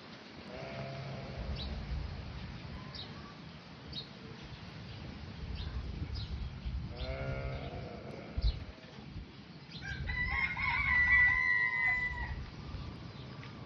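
Fowl calling: two short calls, then near the end a long, loud, steady call of about two seconds, the loudest sound, over a low rumbling background.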